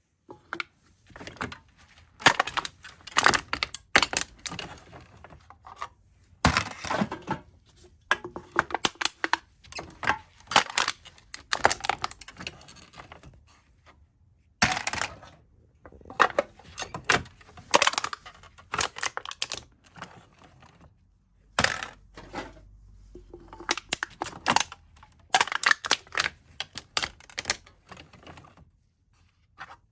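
Aluminium soda cans being crushed: bursts of sharp metallic crinkling and crunching, broken by short pauses.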